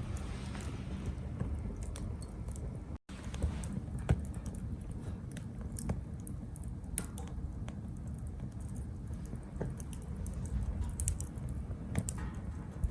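Wood fire crackling in a small tabletop grill: scattered sharp pops and snaps over a low, steady rumble of burning. The sound breaks off for an instant about three seconds in.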